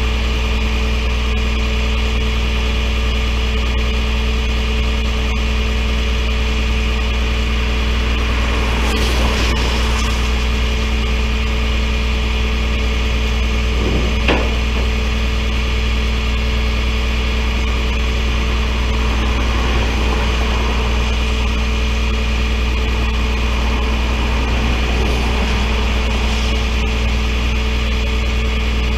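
Vehicle engine idling steadily at a constant pitch, with one sharp click about fourteen seconds in.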